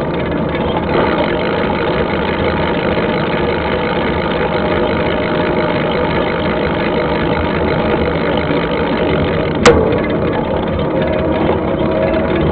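Mountain-bike riding noise: a steady rumble of wind and tyres on a dirt trail, with one sharp knock near the end.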